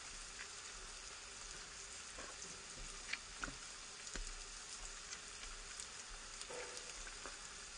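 Faint steady sizzling of chopped onions frying in sesame oil in a pan, with a few light clicks of a spoon against the plate as cooked fish is broken up, a few seconds in.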